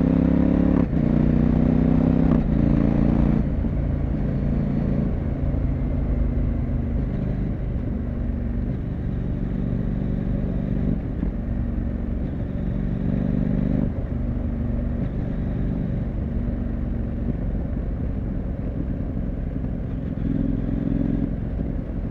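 CFMoto 800MT parallel-twin engine and exhaust under way. It pulls loudly for the first few seconds, with brief breaks in the note typical of quickshifter upshifts. About three and a half seconds in it drops to quieter, steady cruising with low wind rumble.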